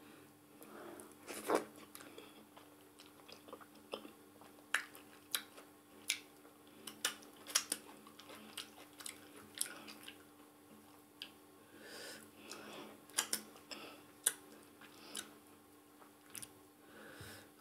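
Close-miked chewing and wet mouth sounds of someone eating maize fufu with ogbono soup, with scattered sharp smacks and clicks in clusters, over a faint steady hum.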